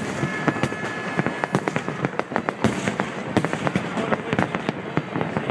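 Aerial fireworks display: shells bursting in a dense, continuous barrage, several bangs a second over a steady rumble and crackle.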